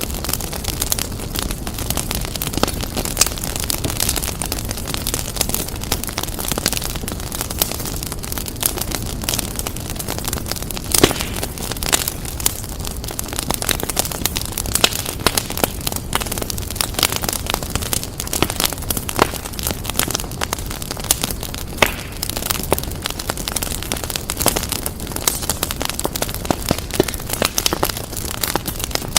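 Fireplace fire crackling and popping continuously over a steady low rumble of flame, with one louder pop about eleven seconds in.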